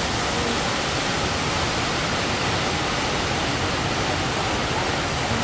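Steady rushing noise of heavy surf breaking, even and unbroken.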